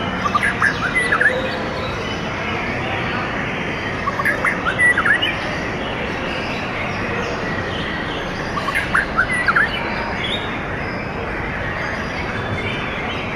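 A songbird calling in three short bursts of quick chirps, about four seconds apart, over a steady hiss.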